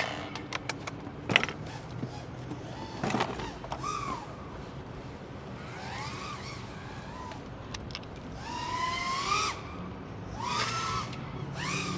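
5-inch FPV quadcopter motors and propellers whining, the pitch swinging up and down in short arcs as the throttle is punched and released, with a few sharp clicks early on.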